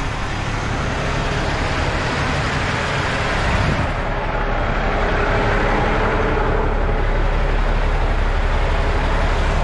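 Dump truck's engine running steadily under a constant rushing noise.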